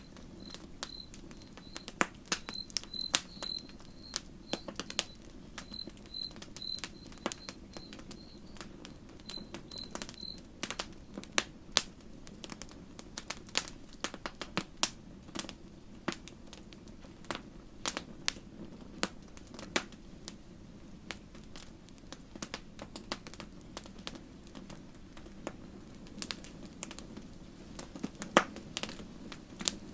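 Wood campfire crackling: irregular sharp pops and snaps over a steady low rush of flame. For about the first ten seconds a faint high chirp repeats two or three times a second in the background.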